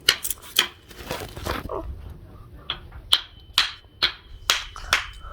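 Metal handcuffs being ratcheted tight around the legs: handling rustle, then a series of sharp clicks, about two a second through the second half.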